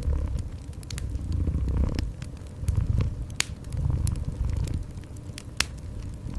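A cat purring in a low rumble that swells and fades about once a second, over a wood fire crackling with scattered sharp pops, two of them louder.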